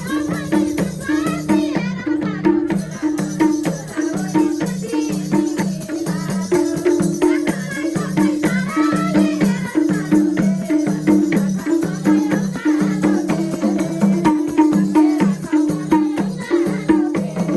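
Instrumental interlude of Nepali dohori folk music: a low pulsing accompaniment repeating in a steady rhythm, with shaker-like rattle percussion.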